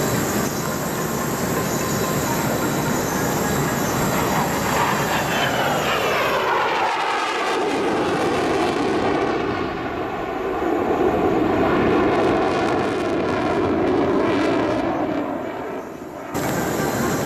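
Mitsubishi F-2 fighter's single F110 turbofan jet engine passing by during a display flight, a loud jet roar whose pitch falls as the aircraft goes past about halfway in. The sound changes abruptly shortly before the end.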